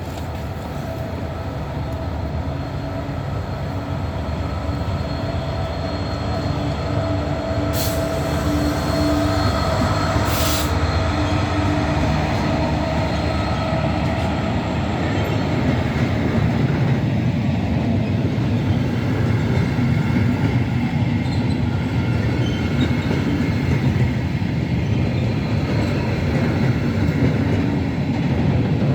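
A freight train passing: a Class 66 diesel-electric locomotive's engine drone, then a long rake of container wagons rumbling along the rails. The sound builds over the first several seconds and then holds steady, with two short high hisses about eight and ten seconds in.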